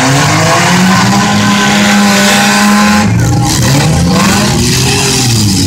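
Demolition derby cars' four- and six-cylinder engines revving hard. The pitch climbs over the first couple of seconds and holds, drops about three seconds in, then rises and falls again.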